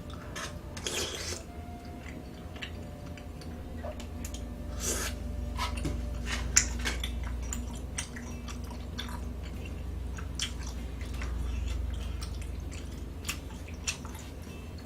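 A person chewing and eating food close to the microphone, with wet mouth sounds and many short, irregular clicks over a low steady hum.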